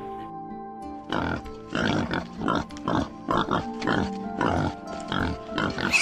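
A pig grunting over and over, a quick run of short grunts starting about a second in, with soft background music underneath.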